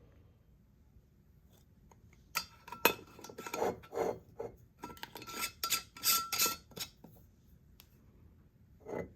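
Kitchen utensils scraping and clinking against cookware: a run of quick scrapes and knocks for about four seconds, with a brief metallic ring, then one more scrape near the end.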